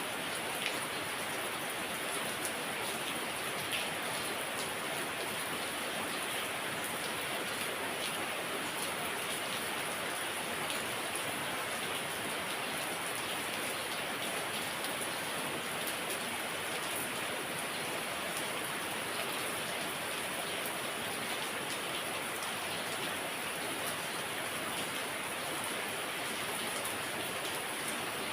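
Heavy rain falling steadily, with scattered drops ticking on hard surfaces.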